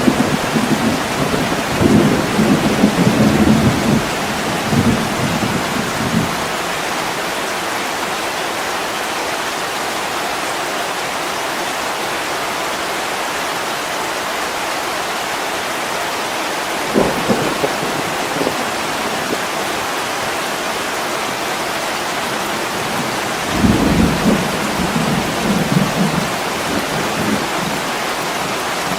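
Heavy rain falling steadily on a window, with low rumbles of thunder swelling in the first few seconds, briefly near the middle, and again near the end.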